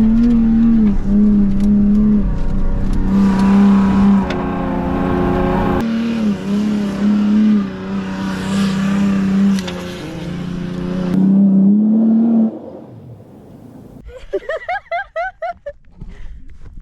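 Vehicle engine revving hard, held at a steady high pitch in repeated pushes with short dips. It drops away about twelve seconds in. A short run of quick, high chirps follows near the end.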